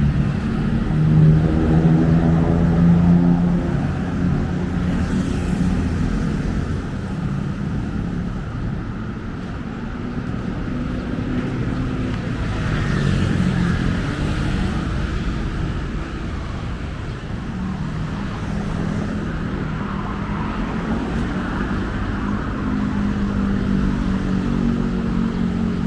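Busy road traffic passing close by: a steady rumble of engines and tyres, with a vehicle's engine hum swelling in the first few seconds and another near the end.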